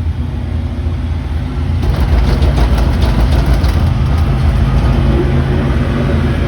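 A vehicle engine running steadily, with a low hum that grows louder and rougher about two seconds in.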